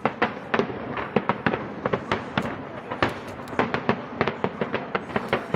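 Aerial fireworks shells bursting in a rapid, irregular barrage of sharp bangs and crackles, several a second, over a continuous rumble of further bursts.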